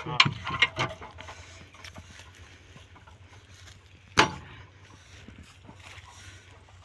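Metal clinking and knocking, as in hand-tool work on a power tiller: several sharp clinks in the first second, then one loud knock about four seconds in, over a faint low hum.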